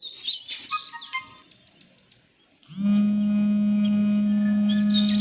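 Small birds chirping in quick high calls. Partway through, a steady low drone with many overtones starts and holds to the end.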